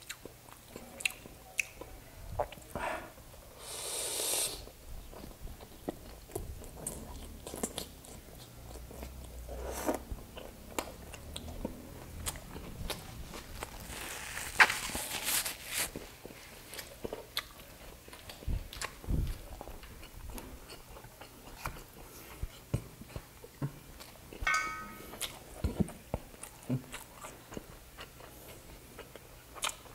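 Close-up wet chewing and biting of grilled skewered meat dipped in vinegar, with frequent lip smacks and mouth clicks. About halfway through, a tissue is rubbed against the nose in a longer hiss.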